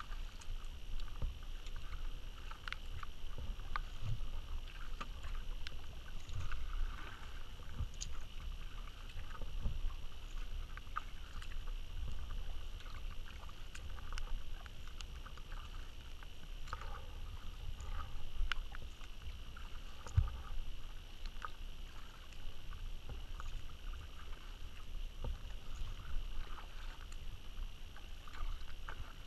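Kayak paddling on a river: irregular small splashes and drips of the paddle blades and water against the hull, over a steady low rumble and a faint steady high hum.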